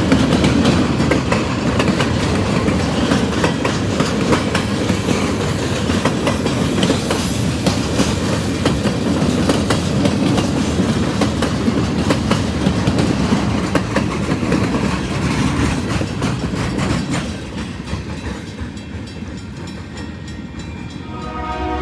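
Railcars rolling past, wheels clacking over rail joints with steady rumbling noise, which quietens after about seventeen seconds. A train horn begins right at the end.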